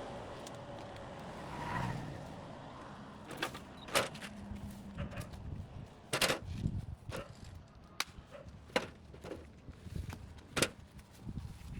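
A vehicle's noise swelling and fading early on, then a series of irregular sharp knocks and clacks, roughly one every second or two.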